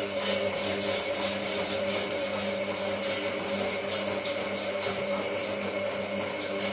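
Hotpoint 9534A washing machine's motor starts abruptly and runs with a steady pitched hum mid-wash, with faint high ticks about twice a second.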